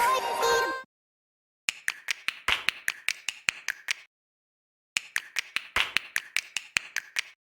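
Background music cuts off about a second in, then two runs of rapid sharp clicking taps, several a second, each lasting about two and a half seconds with a short silence between.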